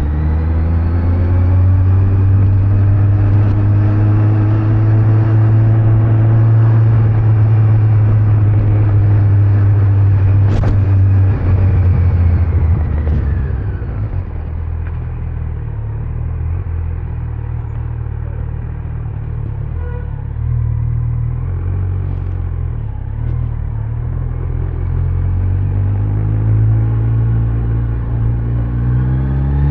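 Kawasaki Z900's inline-four engine running under way with road and wind noise. Its pitch creeps up, then falls off about halfway as the bike slows, runs lower and quieter for a while, and rises again near the end as it picks up speed.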